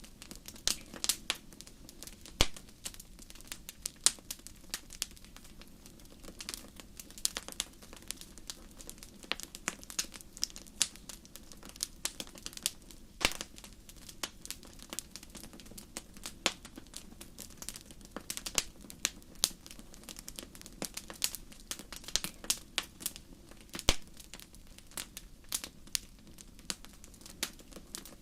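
Wood campfire crackling and popping: sharp snaps come at an irregular pace over a low, steady rush of burning.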